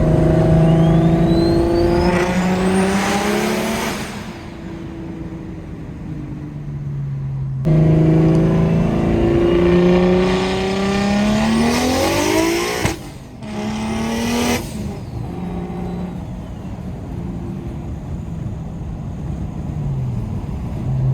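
BMW N54 3.0-litre inline-six, fitted with a single-turbo kit, accelerating hard twice as heard from inside the cabin. The engine note climbs with a rising turbo whistle, then breaks into a short loud hiss of the blow-off valve venting as the throttle lifts. Afterwards the engine settles to a steady lower note, and its pitch falls near the end.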